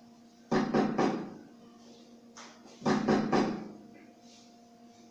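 Knocking on a door: a quick group of three knocks about half a second in, then another group of three near three seconds.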